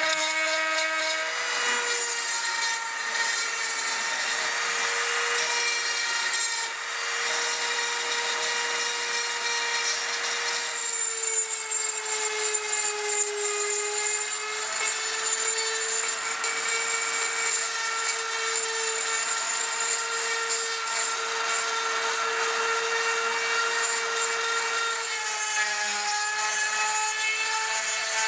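Electric power tool running steadily while grinding or abrading rusty steel: a constant motor hum with a gritty rubbing noise over it. The pitch dips and shifts slightly a few times as the tool is worked against the metal.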